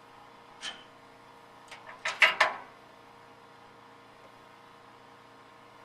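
Siphon hose being worked down into a school bus's fuel filler neck: a light knock, then, about two seconds in, a quick cluster of rattling knocks, over a steady faint hum.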